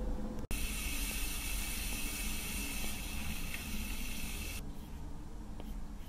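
A steady hiss over a low hum, cut by a brief dropout about half a second in. The hiss falls away about four and a half seconds in, leaving a few faint taps.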